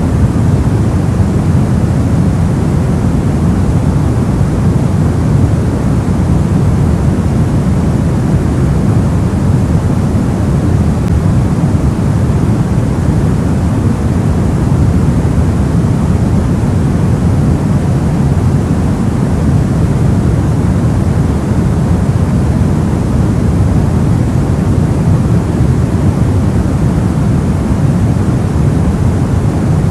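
Soft white noise: a steady, unchanging rushing hiss weighted toward the low end, with no breaks or events.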